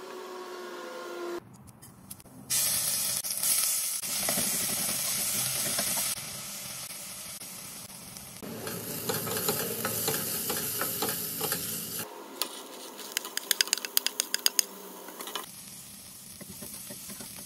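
Chopped vegetables and spices sizzling in hot oil in a stainless steel pot, stirred with a spatula, in several short cuts. There is a run of sharp clicks and taps about two-thirds of the way through.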